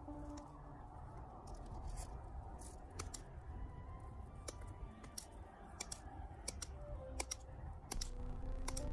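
Irregular sharp clicks and snaps, several a second at times, over a low steady rumble.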